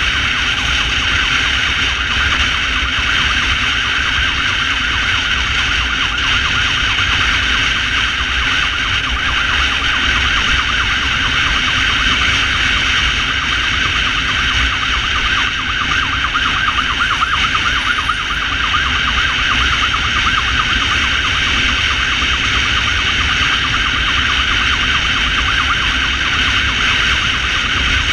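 Ambulance motorcycle underway with its emergency siren sounding steadily, a fast-warbling tone over engine noise and heavy wind rumble on the microphone.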